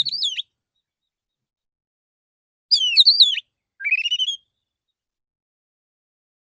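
Male oriental magpie-robin (kacer) singing in clear, sliding whistled phrases: one phrase ends just after the start, then two more come about three and four seconds in. It is the relaxed song that calls other magpie-robins.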